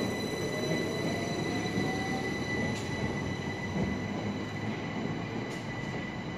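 Electric multiple unit train pulling out and rolling past along the platform, with steady wheel-on-rail rumble and a faint electric motor whine that rises in pitch over the first couple of seconds. Two sharp clicks come about halfway through and near the end.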